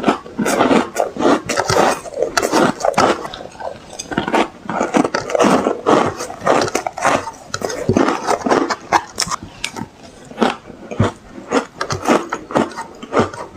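Ice being bitten and crunched between the teeth close to the microphone: a dense, irregular string of sharp crunches and crackles.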